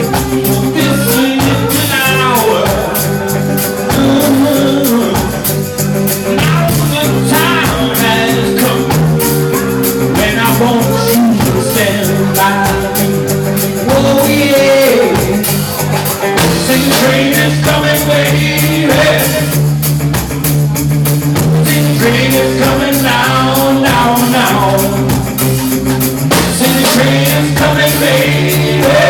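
Live roots-rock band playing an instrumental passage: a steady bass and chords under a wavering, bending lead line, with a regular drum and cymbal beat.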